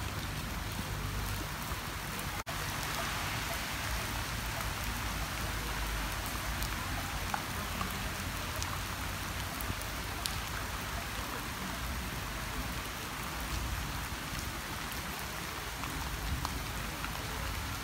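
Steady rain falling on grass, leaves and a wet paved path, with scattered drops ticking close by. The sound cuts out for an instant about two and a half seconds in.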